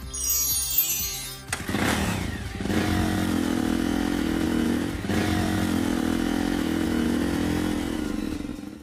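Cartoon vehicle engine sound effect: a short falling sound, then about one and a half seconds in an engine starts and runs steadily before cutting off suddenly at the end.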